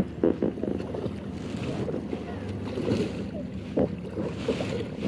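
Ride on a banana boat towed across the sea: wind buffeting the microphone over a steady rush of water and boat noise, with scattered splashes.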